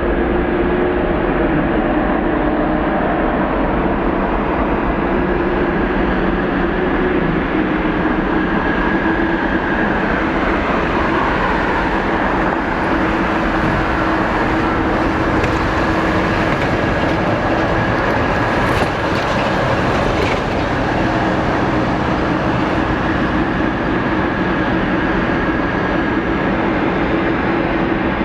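Jet airliner engines running steadily: a constant rushing noise with a steady low hum and a higher whine held throughout.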